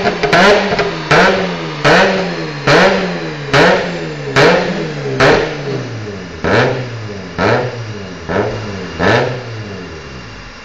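Mazda RX-8's two-rotor rotary engine blipped over and over through an RE-Amemiya Super Dolphin exhaust, about a dozen quick revs that each rise and fall back. The revs come a little further apart toward the end, then the engine settles to idle.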